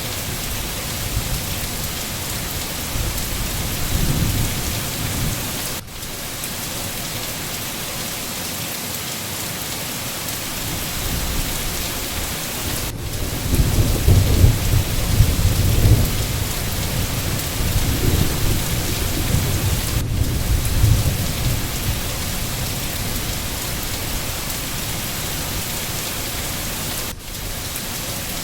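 Steady heavy rain with rolling thunder: a short rumble about four seconds in, then a longer, louder spell of rumbling from about a third of the way through to past the middle.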